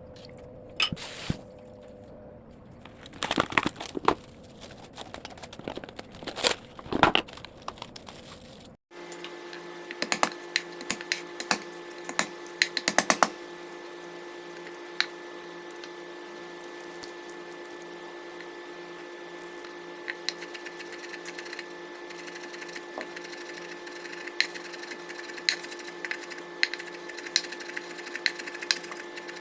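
Kitchen work sounds: scattered knocks and clicks. After an abrupt cut about nine seconds in, a steady hum runs under occasional clicks.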